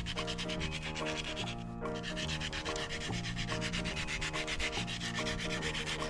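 Quick, even rubbing strokes, like sanding a part by hand, over background music with held notes.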